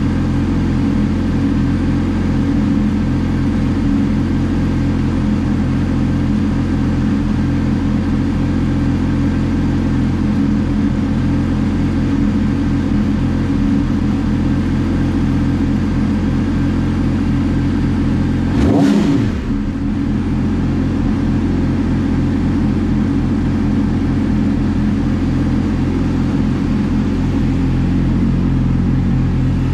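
Yamaha YZF-R6 inline-four motorcycle engine idling steadily, with one brief throttle blip about two-thirds of the way through. The owner says this bike will only settle to idle after being revved to about 4000 rpm, and suspects a fault.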